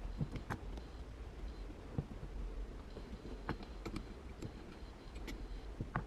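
Irregular light clicks and taps, spaced about a second or so apart, over a low steady hum.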